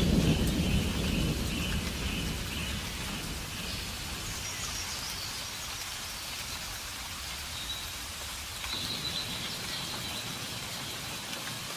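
Steady rainfall, with a low rumble of thunder dying away over the first couple of seconds.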